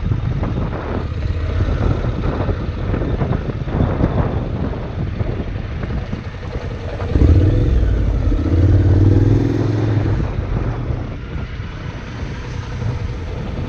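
Motorcycles on the move, with the rush and buffeting of wind on the microphone. About seven seconds in, an engine note grows louder and rises slightly in pitch for a few seconds, then settles back into the wind noise.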